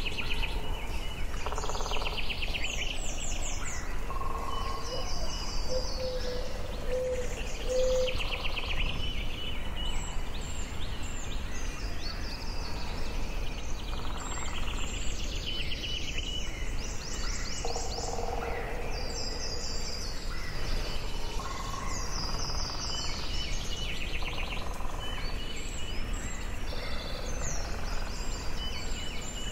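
Forest ambience: several birds singing and calling, with many short trills and chirps overlapping throughout, over a steady low rushing background.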